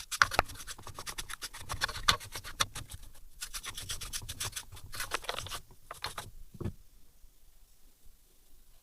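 Rapid scratching and scraping strokes from hands and tools working over small engine parts. The strokes come thick and fast for about six seconds, then thin out to a few scrapes near the end.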